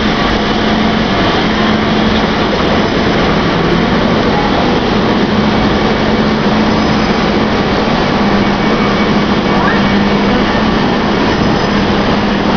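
Electric multiple-unit passenger train moving past close by at the platform: a steady rumble of wheels and running gear with a steady low hum over it.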